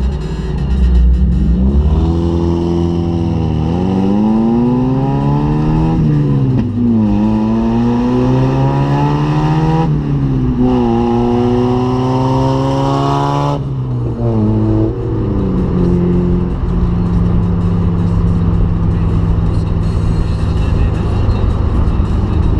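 1990 Mazda Miata's 1.6-litre four-cylinder running with no exhaust behind the catalytic converter, accelerating hard through four rising pulls with three upshifts between them. About thirteen and a half seconds in the revs drop suddenly as the throttle closes, then the engine settles into a steady low drone.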